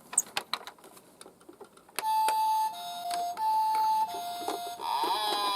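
A few light clicks and taps, then from about two seconds in a two-tone hi-lo ambulance siren sounding two full high-low cycles. Near the end it gives way to a wailing siren that slowly falls in pitch.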